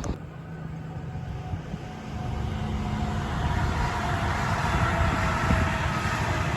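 Train approaching on the line, a low rumble that gets louder from about two seconds in, with a faint steady whine above it.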